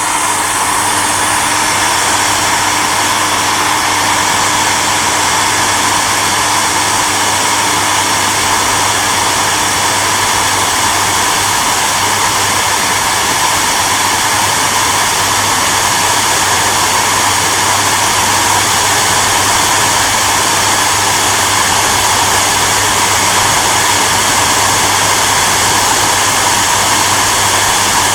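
Hairdryer running steadily: an even rushing of air over a constant motor hum, unchanging throughout.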